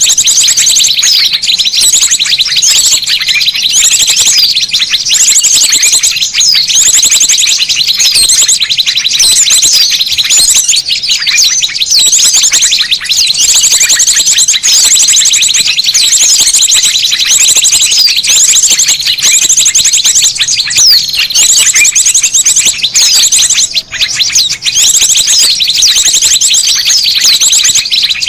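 Bird-lure recording of many small songbirds chirping and trilling at once in a dense, noisy chorus, with rapid high trills repeating every second or two. It is used to draw small birds in close.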